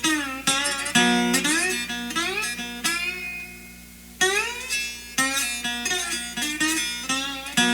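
Instrumental guitar music: plucked notes with sliding, bending pitches, dying away briefly near the middle before the playing picks up again.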